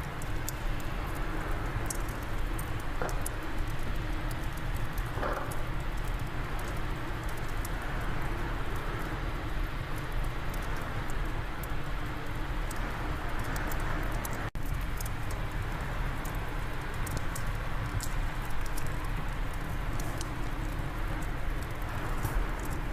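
Fireplace fire crackling with scattered sharp pops over a steady rush of wind.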